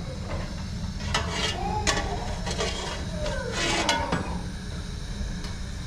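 Kitchen clatter: a utensil clinking and scraping against pots and dishes, with a few sharp clinks.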